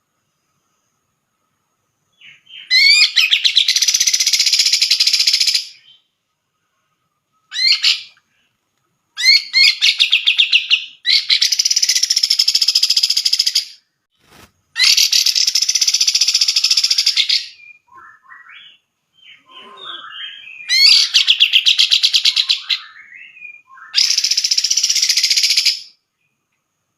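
Cucak jenggot (grey-cheeked bulbul) singing loudly in about seven phrases of rapid, high notes, each one to three seconds long with short pauses between them. A few fainter, scattered notes fall between the phrases past the middle.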